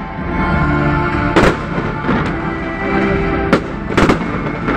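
Aerial firework shells bursting, with a sharp bang about a second and a half in and three more close together near the end, over music playing throughout.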